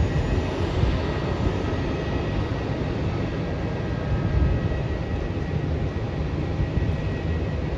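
Jet airliner engines heard from across the airfield: a steady rumble with a faint high whine.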